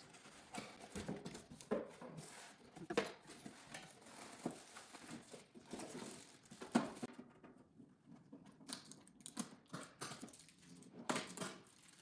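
Faint, scattered rustling, crinkling and light knocks of packaging and plastic parts being handled as a pet water fountain is taken out of its box.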